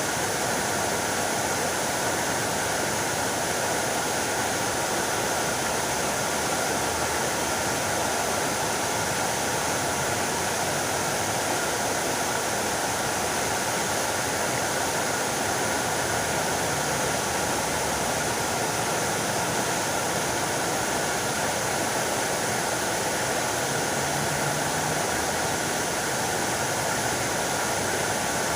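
Fountain water splashing down steadily into its basin, an even rushing hiss with no breaks.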